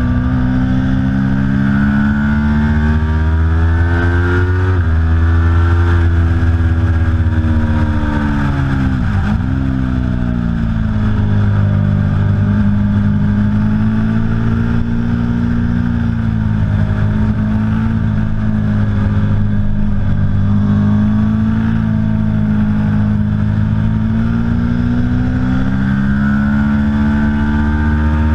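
Aprilia Tuono V4 Factory's V4 engine running hard, its pitch rising and falling as the rider works the throttle and gears. About nine seconds in the revs drop sharply and then climb again.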